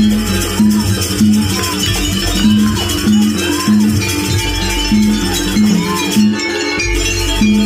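Jaranan gamelan music: a struck metal gong-chime sounds a steady repeating beat about every two-thirds of a second, with a higher melody line gliding up and down above it.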